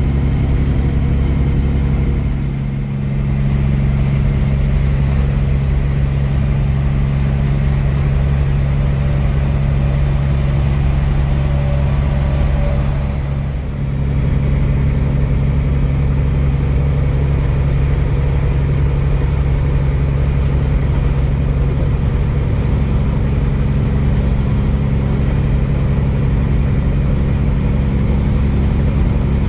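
Kenworth W900 semi truck's diesel engine running steadily while driving, its note dropping briefly twice, about three and fourteen seconds in.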